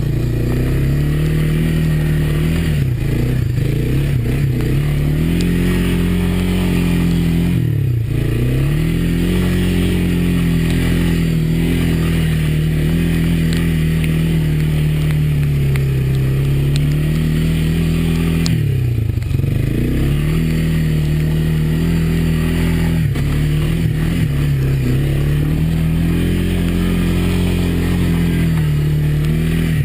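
A Honda ATV's single-cylinder four-stroke engine running under throttle while riding. Its pitch rises and falls, and it drops sharply and climbs back three times, near 3, 8 and 19 seconds in.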